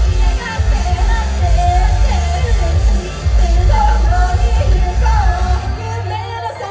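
A live band playing with a sung vocal melody over heavy bass and drums. About six seconds in, the bass and drums drop out, leaving held keyboard or guitar notes.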